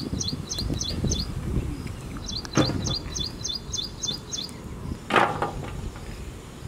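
A bird sings two quick runs of repeated high chirps, about five a second, one at the start and another from about two seconds in. Under it are low knocks and rustles of vegetables being handled on a metal tray. A short, harsh rustle about five seconds in is the loudest sound.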